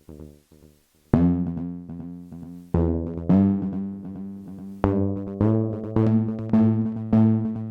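Electronic synthesizer jam on a Novation Mininova with a drum machine. A short plucked pattern fades out over the first second. Then, from about a second in, loud sustained synth tones with sharp attacks are struck again roughly every half second.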